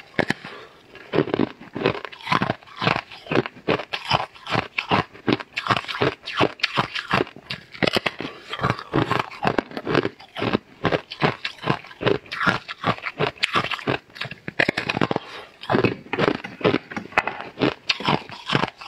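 Close-up crunching and chewing of a large, thin, crisp star-shaped snack sheet: rapid crackly crunches, several a second, as it is bitten and chewed.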